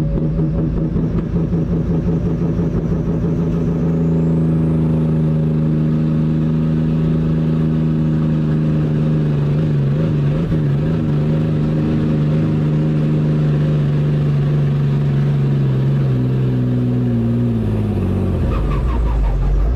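MB-trac tractor's diesel engine running loud at steady revs. Its pitch sags over the last few seconds, dips sharply near the end, then climbs back.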